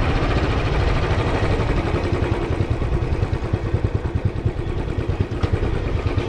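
A vehicle on the move: a steady engine and road rumble, with a heavier, uneven low throb in the second half.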